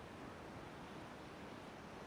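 Ocean surf washing on the shore: a steady, even hiss of waves with no single crash standing out.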